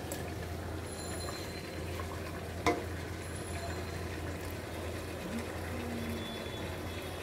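Chicken pieces sizzling as they fry in spiced masala in an aluminium pot, stirred with a wooden spatula, with one sharp knock about two and a half seconds in.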